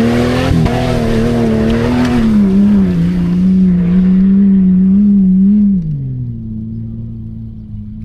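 Old Jeep Cherokee's engine revved hard and held near full revs, wavering, while the wheels spin with a hissing spray. About six seconds in it drops back to a steady idle.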